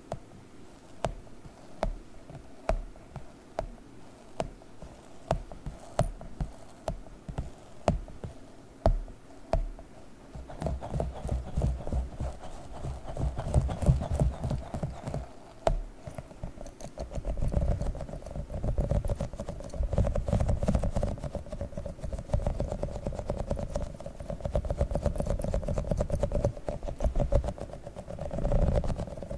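A tiny sticky octopus toy being tapped and peeled in ASMR fashion. For about the first ten seconds there are separate sticky taps about twice a second, then a fast, continuous crackly sticking and unsticking.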